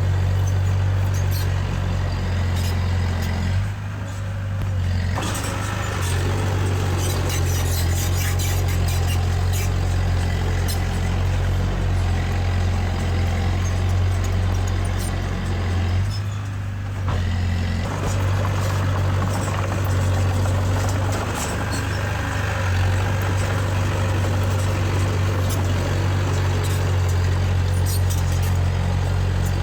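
Diesel engine of heavy earthmoving machinery running steadily under load, with light clicks and clanks over it. The engine note eases briefly twice.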